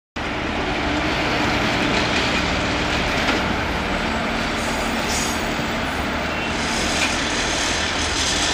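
Vande Bharat Express (Train 18) electric multiple unit approaching on the line, a steady train running noise without horn or speech.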